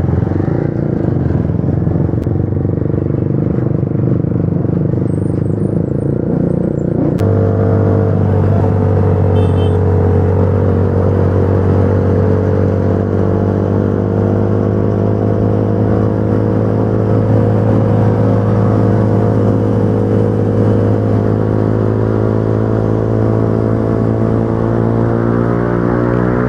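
Motorcycle engine running at a steady pace, changing abruptly about seven seconds in and then holding a steady pitch, with the revs rising near the end.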